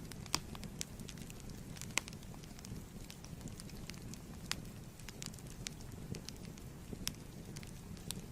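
Wood fire burning in a fireplace: a steady low rumble of flames with irregular sharp crackles and pops, two louder pops near the start.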